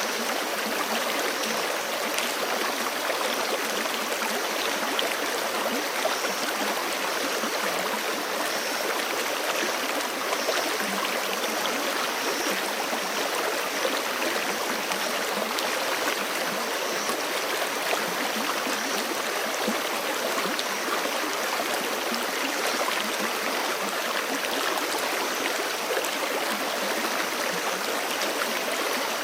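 A forest creek flowing: an even, unbroken rush of running water.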